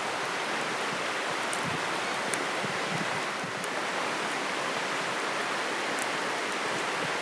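Steady rushing of a flowing river, with a few faint high ticks.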